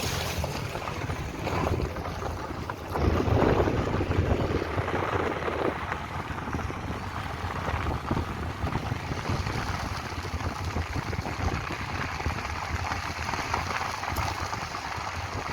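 Wind buffeting the microphone over a steady low rumble and rushing noise, louder for a few seconds about three seconds in.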